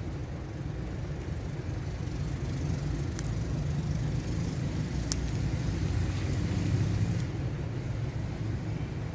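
Steady low rumble of background road traffic, with a few sharp clicks about three and five seconds in.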